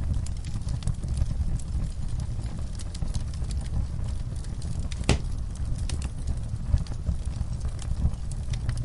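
Wood fire burning in a fireplace: a steady low rumble with frequent small crackles and one sharper pop about five seconds in.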